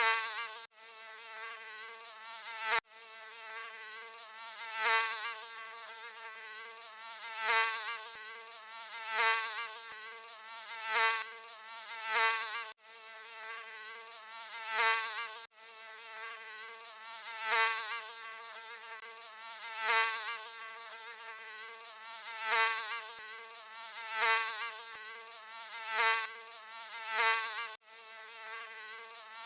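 Mosquito buzzing, a steady high whine that swells louder about every two seconds and fades back, as if flying past the ear. A few abrupt brief cut-outs mark the joins of a looped recording.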